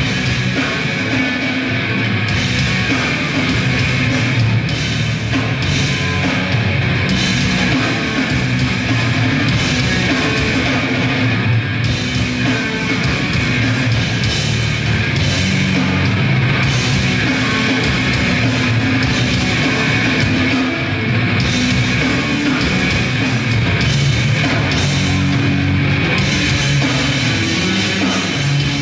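Grindcore band playing live: distorted electric guitars and bass with fast, dense drumming, loud and unbroken throughout.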